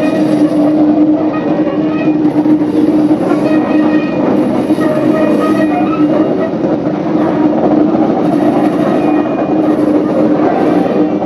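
Queensland Rail NGR electric train cars rolling slowly past at walking pace, wheels running on the track, with a steady low hum throughout. Faint higher-pitched squeals come and go from the wheels on the tight curve.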